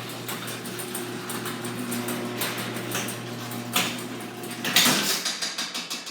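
Craftsman garage door opener running with a steady motor hum and rattling as it lowers the door, then a loud thud near the end as the door meets the floor and the motor stops.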